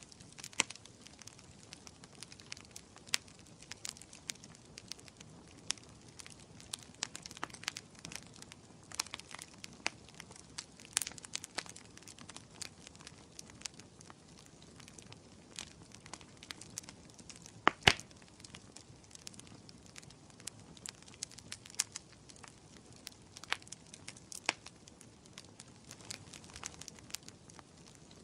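Wood fire crackling in a fireplace: irregular sharp pops and snaps over a low hiss, with a loud double pop about two-thirds of the way through.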